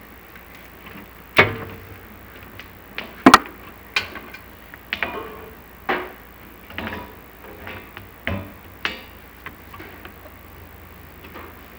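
Irregular knocks, clacks and scrapes of a chimney inspection camera and its rod bumping against clay flue tile as it is lowered down the flue, some strikes ringing briefly, the loudest a double knock about three seconds in.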